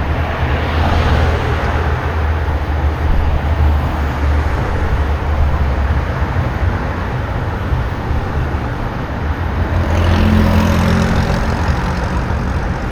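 Steady rumbling, rattling vibration noise picked up by a camera on a bicycle being ridden over a rough road, which the rider puts down to vibrating armrests or the DJI camera mount, unsure which. About ten seconds in it swells, with a low hum added.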